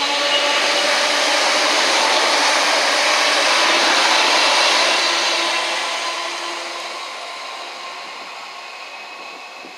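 Class 315 electric multiple unit passing at speed, its wheels on the rails and its running gear giving a loud, steady rush with a faint hum under it. The noise fades gradually after about five seconds as the train draws away.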